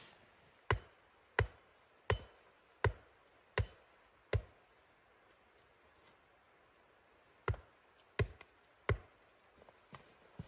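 Steady chopping blows, about one every 0.7 seconds: six in a row, a pause of about three seconds, then three more, with two lighter knocks near the end.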